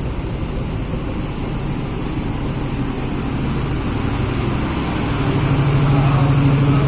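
Diesel locomotive engine running with a steady low drone that grows louder over the last couple of seconds.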